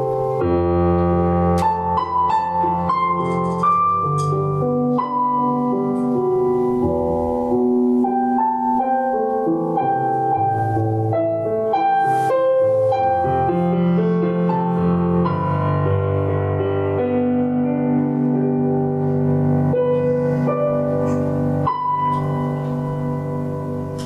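Slow, calm piano music: sustained notes and chords over low bass notes, played continuously.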